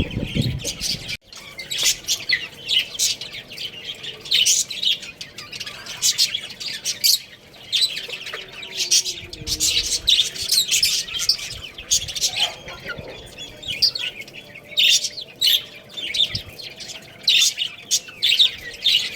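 A group of baby chicks peeping continuously, many short high chirps overlapping.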